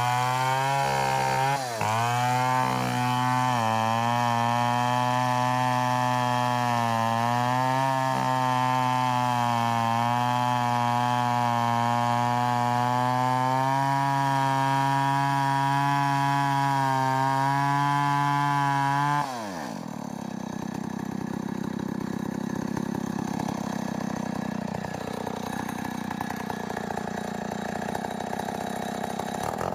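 Two-stroke chainsaw running at full throttle, cutting into a coconut palm trunk with a steady high engine note that sags briefly a couple of times early on. About 19 seconds in the throttle is released and the pitch drops suddenly, and the saw runs on at a low, rougher idle.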